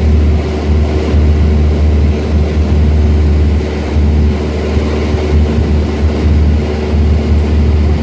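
Cessna 172's piston engine and propeller droning steadily in cruise, heard from the cockpit, with a strong low hum and steady engine tones above it.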